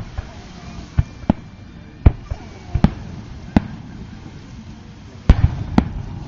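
Aerial fireworks shells bursting: a run of about nine sharp bangs at uneven spacing, with a denser, louder pair about five seconds in.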